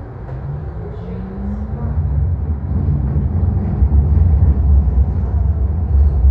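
Light rail train rumbling as heard from on board, growing louder over the first two seconds as it picks up speed, with a faint rising whine about a second in.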